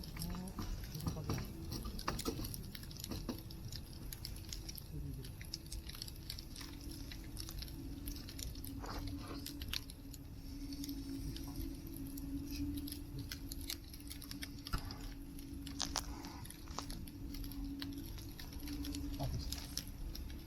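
Wood campfire crackling, with irregular snaps and pops scattered throughout, over a low steady hum.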